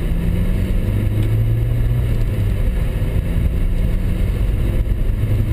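Car engine running steadily under way, heard from inside the cabin over a constant rush of road and tyre noise; its hum firms up slightly about a second in and then holds.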